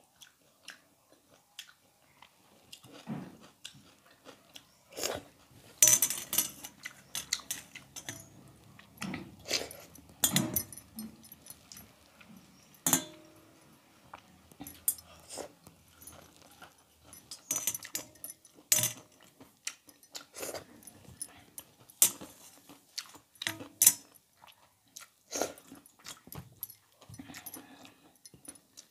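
Close-up eating sounds: chewing and crunching of crisp fried namkeen mixture along with mouthfuls of water-soaked rice eaten by hand, in irregular crisp crunches and wet smacks. The first few seconds are nearly quiet.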